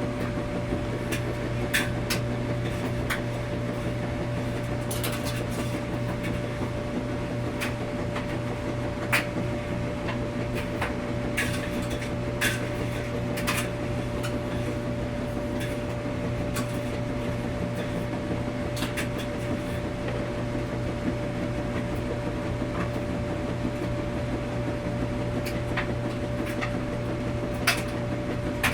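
Laundromat washing machine running: a steady hum with a constant tone, and irregular light clicks and knocks scattered through it.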